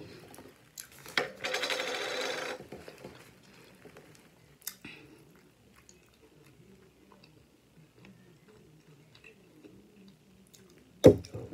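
Close-miked mouth sounds of someone eating a bacon cheeseburger: a louder rasping stretch about a second in, then faint chewing clicks, and a sudden sharp sound near the end.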